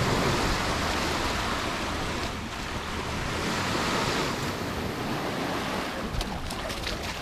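Sea waves breaking and washing up the shore, the wash swelling twice, with wind buffeting the microphone. A few light clicks near the end.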